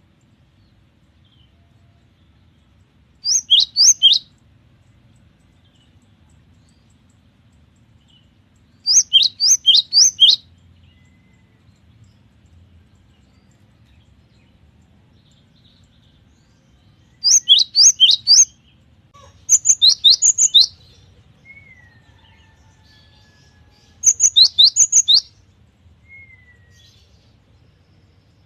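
Cinereous tit (gelatik batu) singing: five short bursts of four to six rapid, sharp whistled notes that each drop steeply in pitch, spaced several seconds apart.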